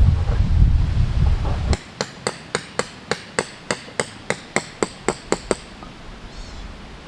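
Steel tent peg being driven into the ground with a hammer: about fourteen quick, ringing metal-on-metal strikes at roughly three a second. Before them is a loud low rumble that stops abruptly under two seconds in.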